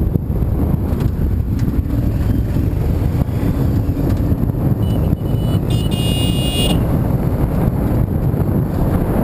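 Car driving along with a steady low road and engine rumble and wind noise on the microphone. About five seconds in there is a brief high-pitched tone, followed by a stronger one lasting about a second.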